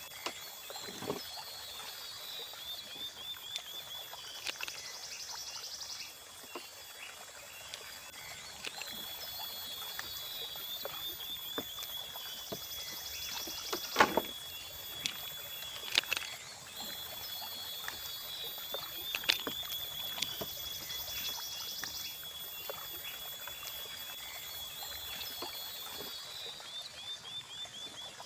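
Forest insect chorus: a steady high whine with runs of chirps and trills that come back every few seconds. A few sharp knocks break in, the loudest about halfway through.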